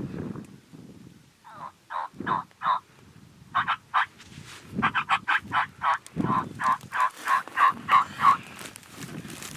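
Turkey yelping: a series of short, evenly repeated yelp notes, a few at first and then a longer run of about a dozen, with soft rustling and thumps beneath.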